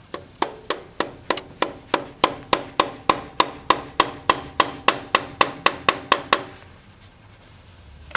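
Hammer driving a chisel against the staked collar of the 4Runner's rear companion flange nut. It strikes about twenty-two sharp metal-on-metal blows in a steady rhythm of a little over three a second, then stops. Each blow opens up the staking so the nut can be removed.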